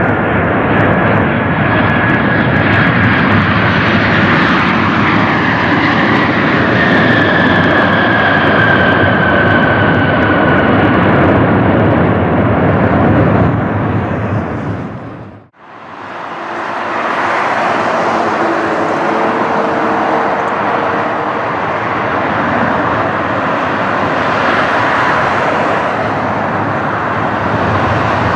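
Boeing 737-800 jet engines running loud, with a whine that falls in pitch, fading out about halfway. After a cut, an Airbus A319's jet engines running loud and steady.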